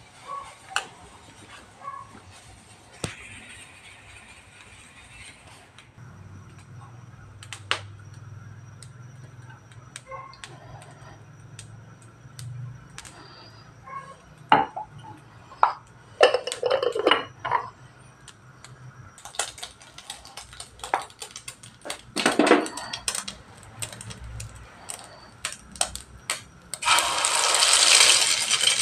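A spoon clinking and scraping against a bowl and a metal pan, in scattered sharp knocks. Near the end, a loud steady sizzle starts as the noodles go into the hot oil in the pan.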